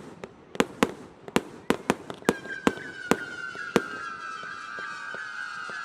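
Fireworks going off: a rapid run of about ten sharp bangs, stopping a little under four seconds in. From about two seconds in a steady high whistling tone comes in and holds, with faint crackles after the bangs end.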